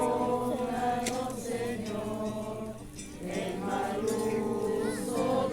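A group of people singing together, holding long notes, with a short break between phrases about three seconds in.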